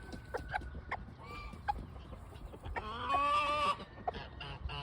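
Bantam rooster tidbitting: short, soft clucks scattered through the first two seconds to call a hen to food, then a louder, drawn-out call lasting under a second about three seconds in.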